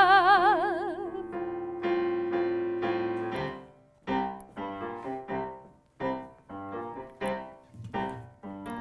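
A woman's held sung note with wide vibrato fades out over sustained keyboard chords in about the first second. The keyboard then plays alone, a slow run of separate piano-voiced chords at roughly two a second.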